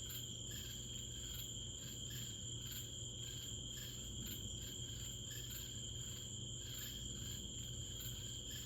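Night insects chirping in a steady chorus, a pulsing trill of a few beats a second over a constant high buzz, with a low steady hum underneath. No thunder is heard from the lightning.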